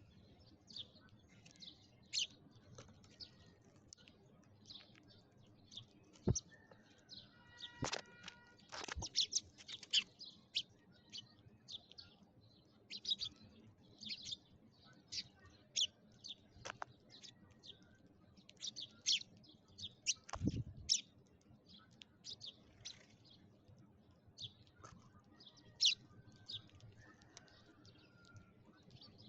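Sparrows chirping, with many short, high chirps close together. A few sharp knocks cut in, the heaviest a low thump about twenty seconds in.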